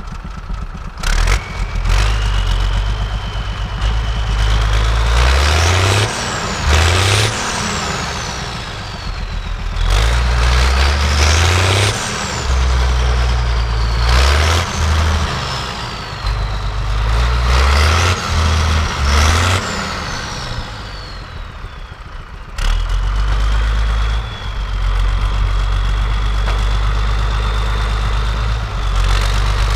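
Zetor tractor's turbo diesel engine revved hard and eased off about four times, a turbo whine climbing and falling with each rev, as it strains to move in powdery snow over ice; near the end it settles into a steadier run with a steady whine.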